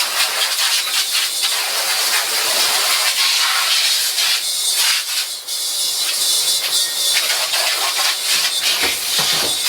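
Steady hiss of a water jet from a portable tank-fed spray washer, spraying onto a screen-printing screen to wash it out.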